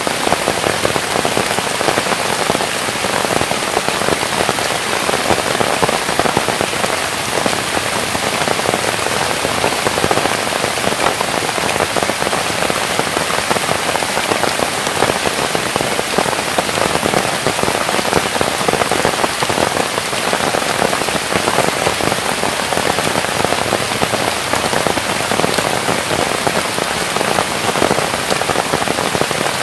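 Steady, dense patter of falling water, like heavy rain on a surface.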